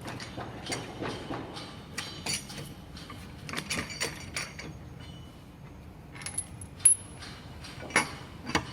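Metal clinks and rattles of car wheel bolts being unscrewed and handled, with a sharp ringing clink about seven seconds in.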